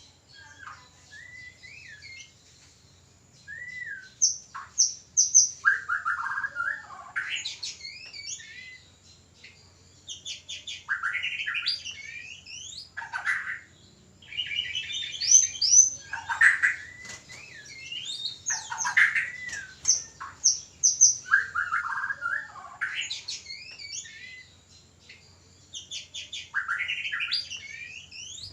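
White-rumped shama (murai batu) in mating condition singing. A song phrase comes every few seconds, each a mix of clear whistles, fast trills and harsh notes, with short pauses between.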